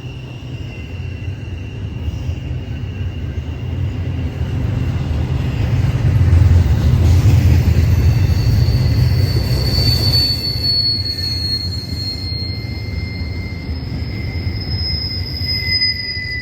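Norfolk Southern freight train rolling past with a heavy rumble of wheels on rail. The rumble swells to its loudest about seven seconds in and then eases. Over it runs high-pitched wheel squeal in a few steady tones, shifting to different pitches about ten seconds in.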